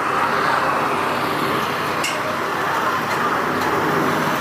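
Steady roar of vehicle noise with faint voices underneath, and two light clicks partway through.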